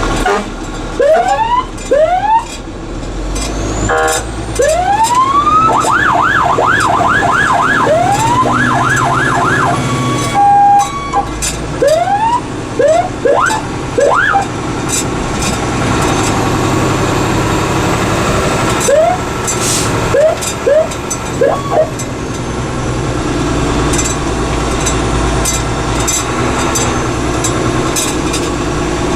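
Fire engine siren sounded in short rising whoops, with a fast run of repeated rising sweeps about six to ten seconds in and more short chirps later. Underneath, the truck's engine runs steadily.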